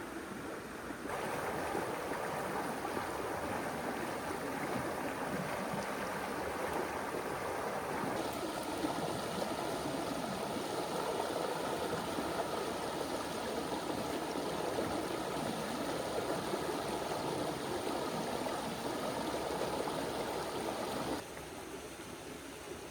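River water rushing steadily. It jumps abruptly louder about a second in and drops back abruptly near the end.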